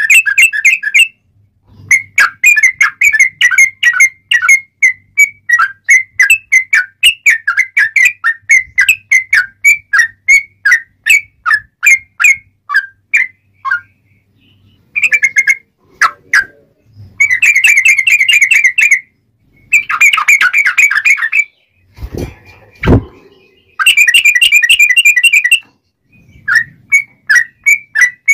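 Yellow-vented bulbul (trucuk) singing in loud, clear phrases: long runs of quick, sharp chirping notes, several a second, broken by short pauses. Denser, faster trill passages come in the second half.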